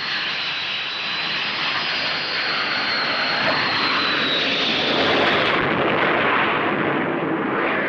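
Aircraft engine noise from a Navy training plane making a touch-and-go carrier approach: a loud, steady rush with a thin high whine that fades out about halfway through.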